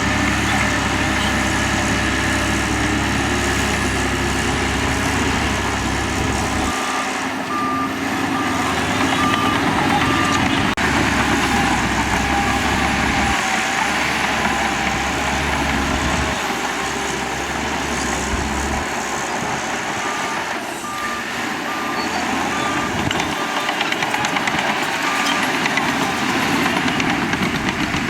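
Diesel engine of heavy earthmoving machinery running steadily, with a reversing alarm beeping in two runs of about two beeps a second, one starting a few seconds in and a longer one in the second half.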